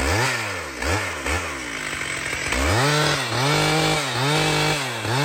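Two-stroke chainsaw revved in three quick throttle blips, then held at high revs for a couple of seconds, dipping briefly and rising again each time.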